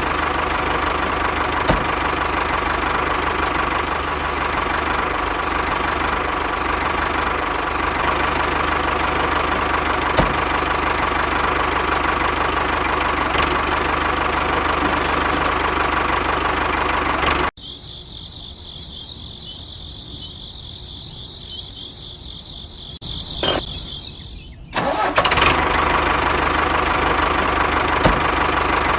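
A homemade tractor's engine running steadily. About 17 seconds in it cuts off abruptly to a quieter stretch with a high buzzing, and the engine sound comes back about 25 seconds in.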